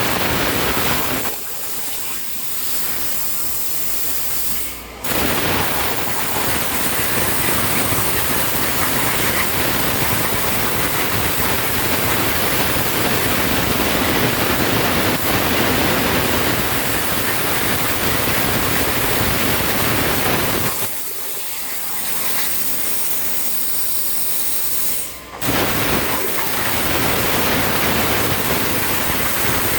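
Mini CNC plasma cutter's torch cutting with a loud, steady hiss. Twice the hiss drops for about four seconds to a thinner, quieter hiss, and each time it comes back in full right after a sharp click.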